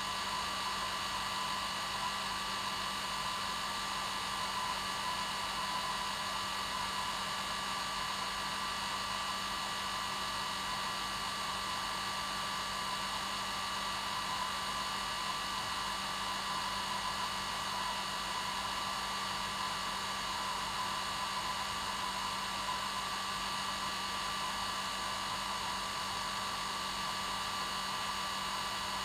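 Hair dryer running steadily: an even blowing hiss with a steady motor whine, unchanging throughout.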